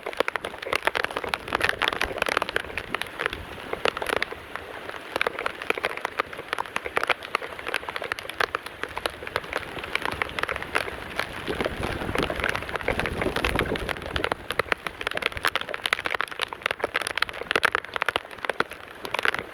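Heavy tropical storm rain pouring down, a dense patter of close drops, with a low rumble swelling briefly past the middle.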